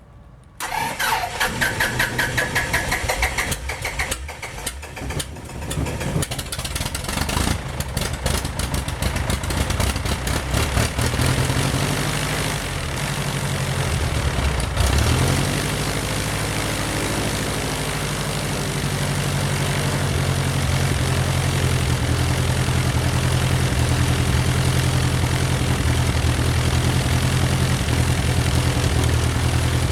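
Titan IO-340 four-cylinder aircraft engine of a RANS S21 starting for the first time. It catches and runs raggedly for several seconds, then settles into a steady idle with the propeller turning, with a brief dip and rise in engine speed about halfway through. The owner reports some trouble with the idle setting on this first start.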